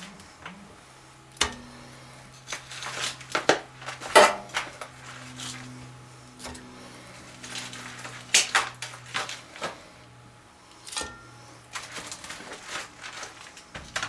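Kitchen handling sounds: irregular knocks, clinks and rustling of pots, dishes and food being moved, over a steady low hum.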